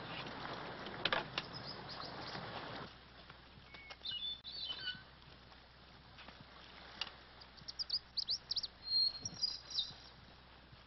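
Small birds chirping: a few short high chirps about four seconds in, then a quick run of chirps and trills from about seven and a half seconds until near the end. Before that, a steady rushing noise with a couple of clicks cuts off about three seconds in.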